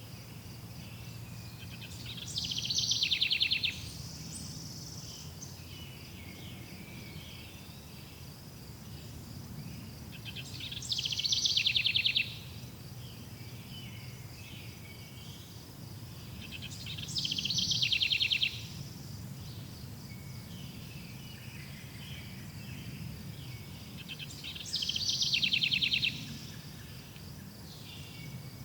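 A songbird repeats a loud, rapid trilled phrase about every seven seconds, four times in all, each lasting about a second and a half. Underneath runs a steady high insect trill, with a low rumble.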